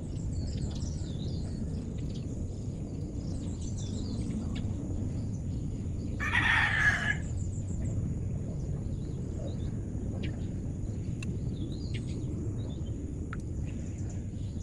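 Outdoor ambience of small birds chirping over a steady insect trill and a low background rumble. About six seconds in, a louder animal call lasting about a second stands out.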